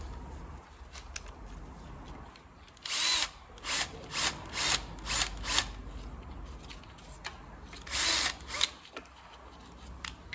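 Power drill-driver running in short bursts, driving in the small screws that hold the timing-belt cover parts: one burst about three seconds in, five quick ones after it, and two more near the end.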